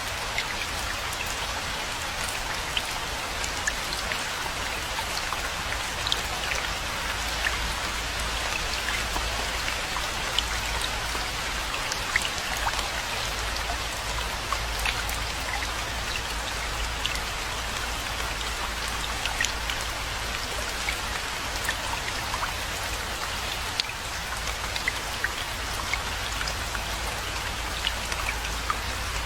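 Steady rainfall, with many individual drops pattering close by over a constant hiss and a low rumble underneath.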